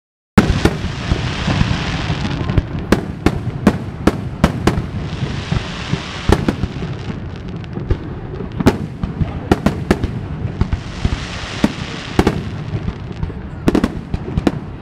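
Fireworks display: aerial shells bursting in a rapid run of sharp bangs, several a second at times, with swells of crackling and hissing about two, six and eleven seconds in. The sound cuts out for a moment at the very start.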